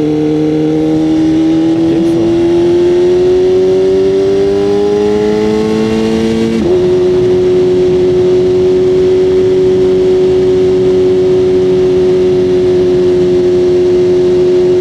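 BMW motorcycle engine under way, climbing slowly in pitch as the bike gathers speed. After about six and a half seconds there is a gear change, and then it holds a steady pitch at cruising speed, over a constant rush of road and wind noise.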